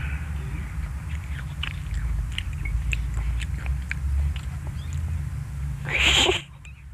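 Young children chewing blackberries, with small wet smacking clicks from their mouths and fingers over a steady low rumble. A short child's vocal sound comes about six seconds in.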